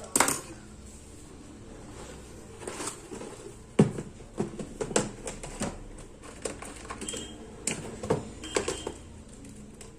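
Irregular clicks and taps of small hand tools and electronic parts being handled, the loudest about four seconds in and most of them in the second half.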